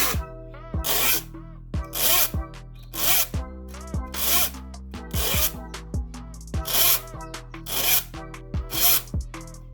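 Saw file stroking across the teeth of a hand saw, about one stroke a second, sharpening the teeth.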